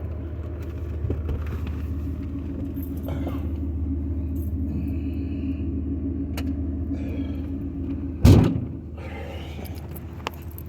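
Car engine running steadily with a low hum, and one loud thump about eight seconds in.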